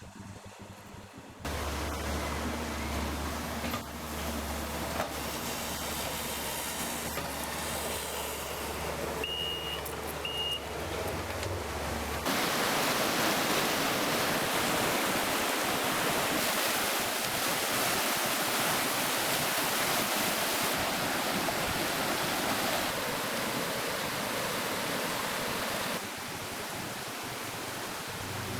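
Rushing floodwater making a steady noise across several cut shots. A low hum runs under the first part, and two short high tones come about ten seconds in.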